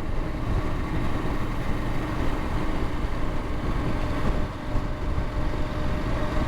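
Motorcycle riding at a steady speed, with its engine giving a faint, even hum under a constant rush of wind noise on the microphone.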